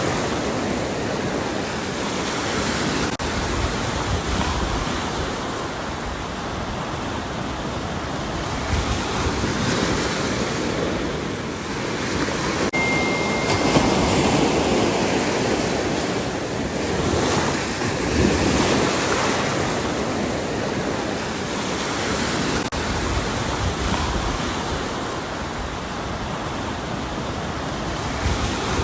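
Ocean surf: waves breaking and washing up the shore, rising and falling in swells every few seconds.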